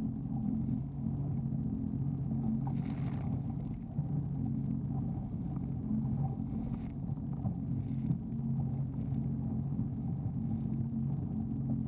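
Jet ski engine running steadily, with a few short bursts of hiss.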